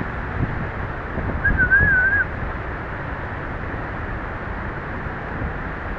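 Steady outdoor rushing noise with gusty rumbles on the microphone, and one short warbling, whistle-like call about one and a half seconds in.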